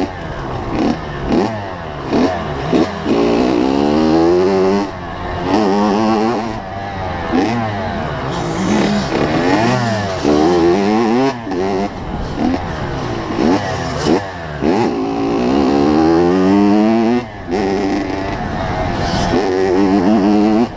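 85cc two-stroke motocross bike engine revving hard, its pitch climbing and dropping back again and again through the gears and off the throttle, with scattered sharp knocks.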